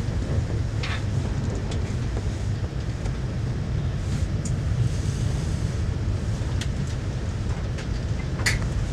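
Steady low rumble of a VIA Rail passenger train under way, heard from inside the coach, with a few short faint clicks about a second in and near the end.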